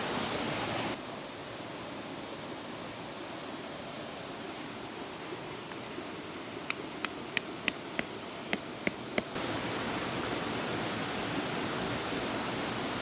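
Steady rush of a river, dropping a little in level about a second in and coming back up near the end. In the middle comes a quick run of about eight sharp clicks.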